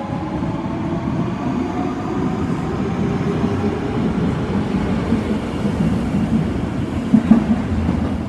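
Osaka Metro subway train running on the track: a steady low rumble with a faint electric motor whine that fades in the first second, and a few louder knocks about seven seconds in.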